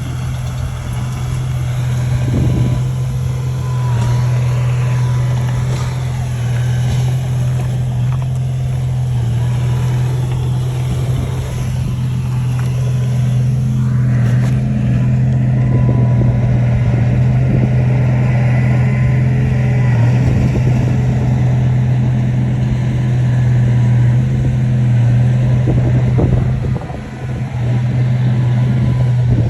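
Heavy diesel engine of earthmoving machinery running steadily under load, with a deep constant hum and a brief dip in level near the end.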